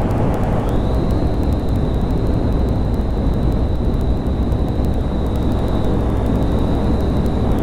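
Honda Grom 125's small single-cylinder four-stroke engine running steadily under way, buried in heavy low wind rumble on the microphone. A steady high whine comes in about a second in and fades near the end.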